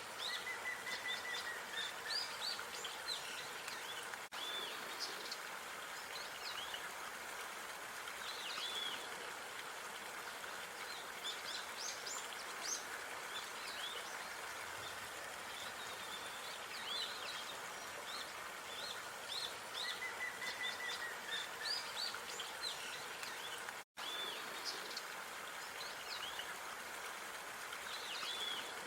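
Park ambience: small birds chirping and calling repeatedly over a steady background hiss, with a short trill twice. The sound drops out completely for an instant about four-fifths of the way through.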